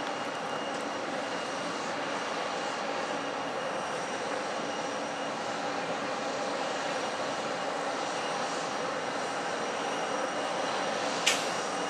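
Airliner engines running steadily, a constant rushing noise with a steady whine through it. A single sharp click comes near the end.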